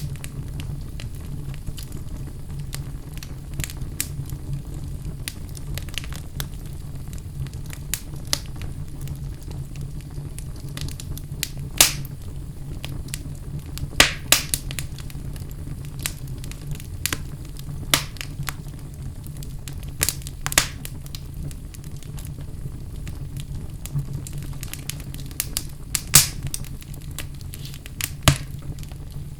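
Wood fire burning in a fireplace: a steady low rumble of the flames with irregular crackles and pops from the logs, a few sharper pops standing out.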